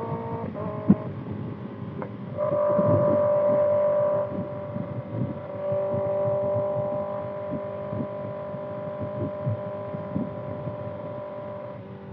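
Kawasaki ZX-6R 636 inline-four engine through a Voodoo Racing slip-on exhaust while riding: a steady, loud exhaust note that swells for about two seconds starting about two seconds in, then holds steady at cruising revs and eases off near the end.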